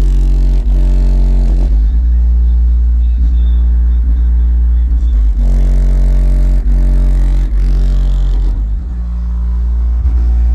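Bass-heavy demo music played loud through the car's Kong Audio subwoofers, with long, deep bass notes beneath the tune.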